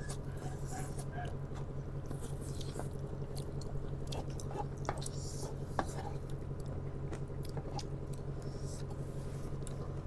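People chewing and biting spicy noodles close to the microphone, with many short wet clicks and smacks. A steady low hum runs underneath.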